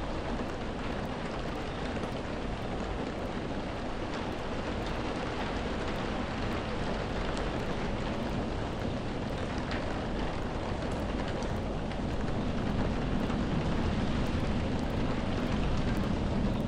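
Steady rain falling as an even hiss, getting a little louder about twelve seconds in, with a low rumble swelling in the last few seconds.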